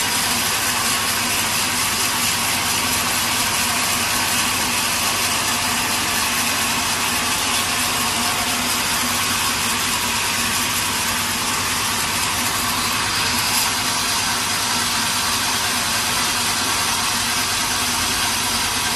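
Sawmill machinery running steadily: a continuous, even mechanical noise with a faint low hum underneath.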